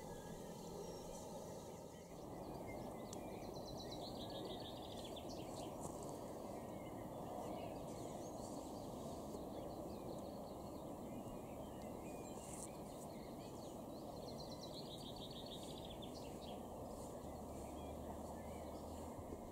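Outdoor ambience: a songbird sings a quick, falling run of notes twice, a few seconds in and again near the end, with scattered faint chirps over steady background noise.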